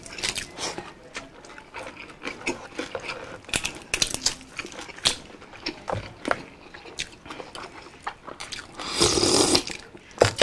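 Close-up mouth sounds of eating by hand: chewing, lip smacks and many small wet clicks as rice and fried milkfish are eaten, with a louder burst of noise about nine seconds in.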